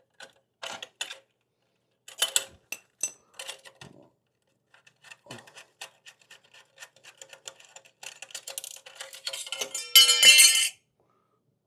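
Hand tools and small metal parts clinking and knocking together, with a run of rapid clicks that builds to a loud burst near the end.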